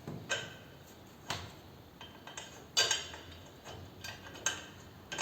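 Metal hand tools clinking and knocking as they are handled, several irregular sharp metallic clinks a second or so apart, the loudest near the end.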